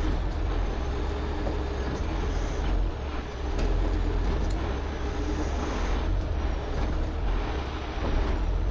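Heavy rotator tow truck's diesel engine running steadily during a boom lift, with a continuous low rumble and a faint high whine that wavers up and down.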